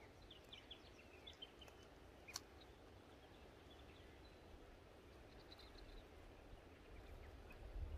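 Near silence with faint bird chirps, and one sharp click a little over two seconds in.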